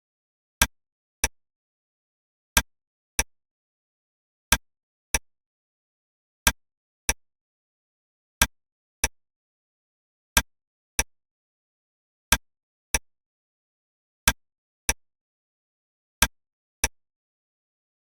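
Clock ticking in a tick-tock pattern: sharp clicks in pairs about half a second apart, each pair coming about every two seconds, with silence between.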